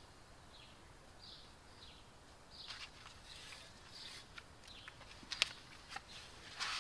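Small birds chirping in a series of short, falling chirps. From a little under three seconds in, short clicks and taps of hands working on a wooden tabletop join them. The sharpest click comes about five and a half seconds in.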